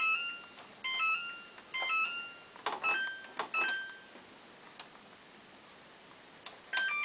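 Samsung WF8804RP washing machine's control panel beeping as its buttons are pressed: a string of short two-note electronic beeps about a second apart, with a few button clicks, then a pause of about two seconds and more beeps near the end.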